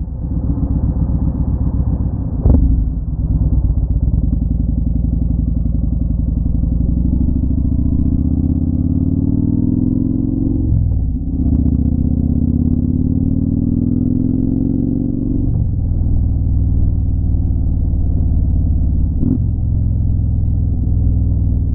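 Motorcycle engine running under way. Its pitch climbs as the bike accelerates, with a brief break about halfway through and again a few seconds later as it shifts up. A couple of short knocks come through, one a few seconds in and one near the end.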